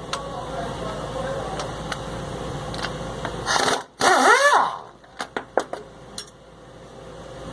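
Mechanic's tools at work on a truck differential during teardown: a steady mechanical noise, then a loud burst with a brief wavering whine about halfway through, followed by several sharp metallic clicks.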